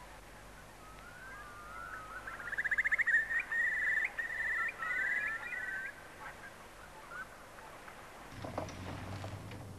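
A bird calling: a series of gliding whistles that build into a fast, bubbling trill, then fade out. Near the end a run of sharp knocks and clatter begins over a low hum.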